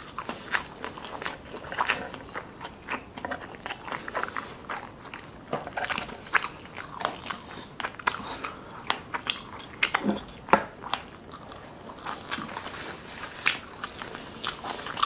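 A person chewing and biting crunchy deep-fried soft-shell crab, with many sharp, irregular crunches.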